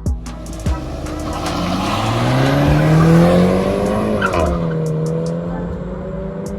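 Renault Mégane RS's 1.8-litre turbocharged four-cylinder engine accelerating, its note climbing for a couple of seconds, loudest about three seconds in, then dropping and settling into a steady tone. Music with a beat runs underneath.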